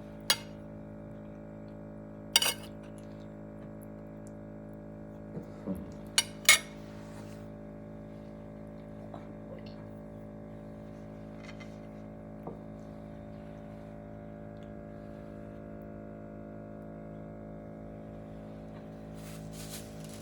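Cutlery and dishes clinking during a meal: a few sharp, separate clinks in the first seven seconds, the loudest about six and a half seconds in, then a single fainter one. Under them runs a steady hum.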